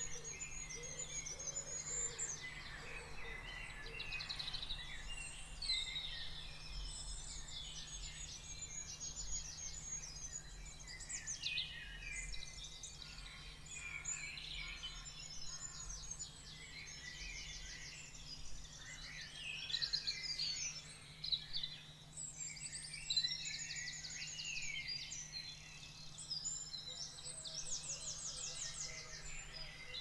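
Several songbirds singing and calling at once: a dense, overlapping chorus of high chirps and fast trills, over a faint steady low hum.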